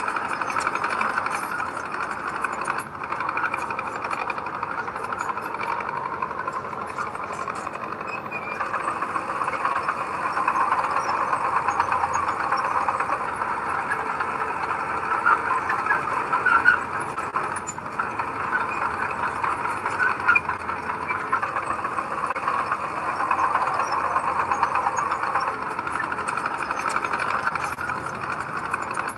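Heavy diesel earthmoving machinery running steadily, with a few brief louder peaks about halfway through.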